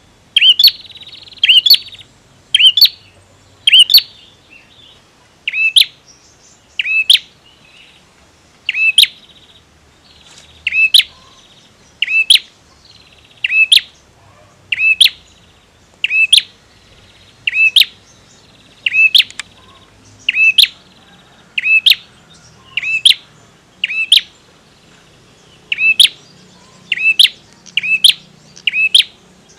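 Male prinia (prenjak) calling: loud, sharp chip notes repeated about once a second, some in quick pairs, with a faint buzzy trill between them at times.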